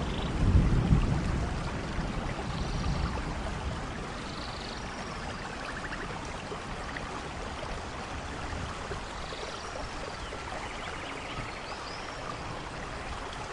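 Steady rain falling, with a low rumble of thunder in the first couple of seconds that fades away. Faint short trilling calls sound now and then over the rain.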